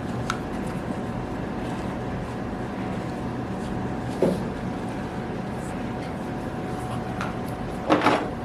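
Steady background hum with a faint constant tone, broken by a few soft taps and brief rustles of handling.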